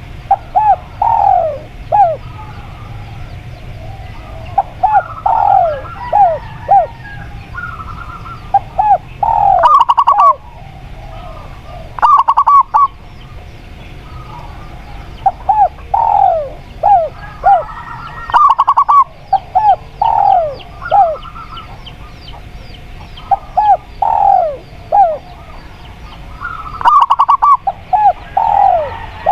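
Spotted dove and zebra dove cooing, in repeated phrases of short notes that fall in pitch, every few seconds, with a few rapid rattling trills among them. Small birds chirp faintly and steadily behind.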